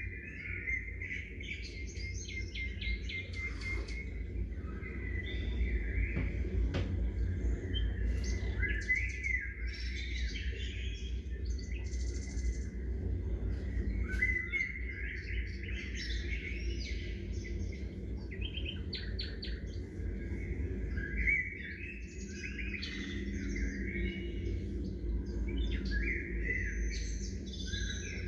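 Several small songbirds chirping and calling over one another: a busy chorus of short high chirps and quick runs of notes, over a steady low rumble.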